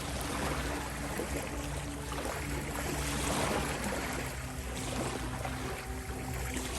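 Ocean waves washing in and drawing back, swelling about twice, over soft sustained synthesizer drone tones.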